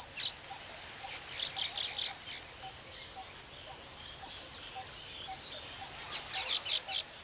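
Weaver birds calling in high, quick chirping bursts, once about a second in and again near the end, over a faint steady outdoor background.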